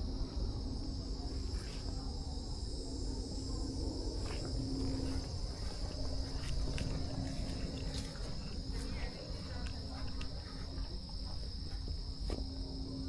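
Steady high-pitched chorus of insects trilling without pause, over a low rumble and a few faint clicks.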